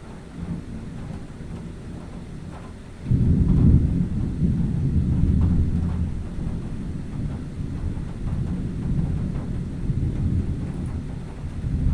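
Thunder rumbling: a low rolling rumble that jumps sharply louder about three seconds in and keeps rolling for several seconds, swelling again near the end.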